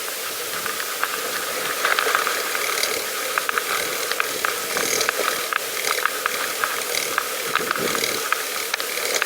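Pedal bicycle's freewheel ticking with a rapid, uneven run of clicks as the bike coasts, over a steady hiss of riding.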